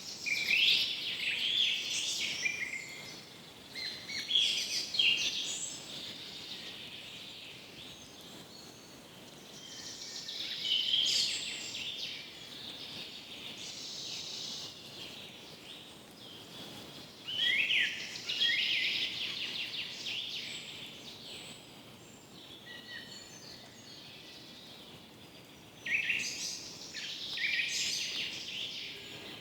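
Songbirds singing in a forest, several chirping and trilling phrases coming in bursts every few seconds over a faint steady background hiss.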